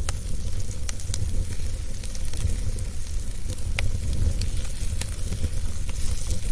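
Wood fire burning in a fireplace, crackling with scattered sharp pops over a steady low rumble, one pop louder a little past the middle.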